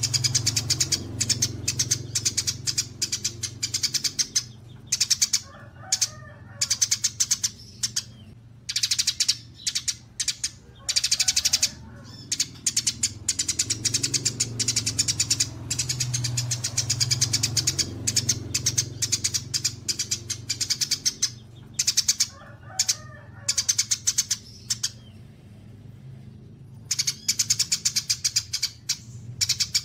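Songbirds chattering in fast, high-pitched bursts of a few seconds each, from a mastering recording combining kapas tembak, cililin and fighting sparrows, with a brief pause about three-quarters of the way through. A steady low hum runs underneath.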